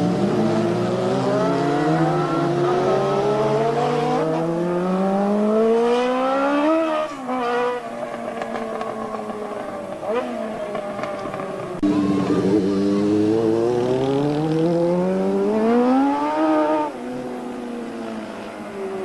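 Racing superbikes passing at full throttle: the engines climb in pitch for several seconds, then drop away quickly as they go by. This happens twice, about seven seconds in and again near the end, and more than one bike is heard each time.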